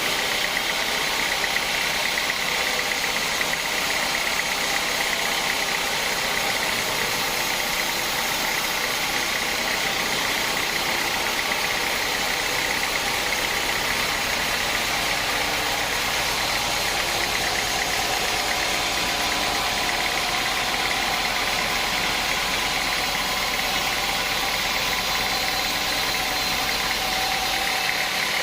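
Sawmill machinery running steadily: a constant mechanical drone with a steady high whine over it, unchanging throughout.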